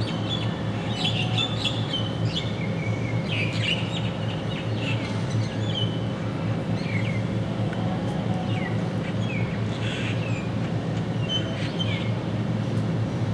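Small birds chirping and whistling repeatedly, in many short calls throughout, over a steady low rumble.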